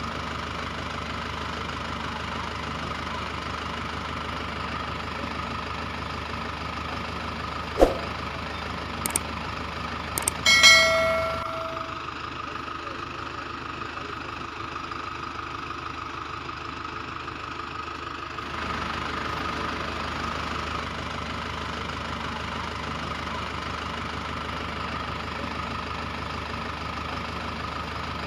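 Steady whirring drone of a toy vehicle's small motor, with a sharp click about eight seconds in, a few lighter clicks, and a brief metallic ring about ten and a half seconds in.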